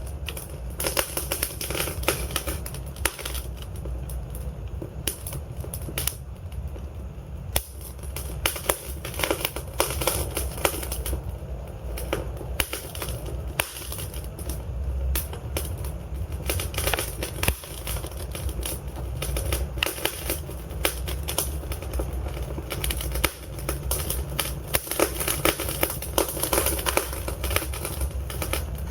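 Wood fire burning in a fireplace: logs crackling and popping in irregular clusters of sharp snaps over a steady low rumble of the flames.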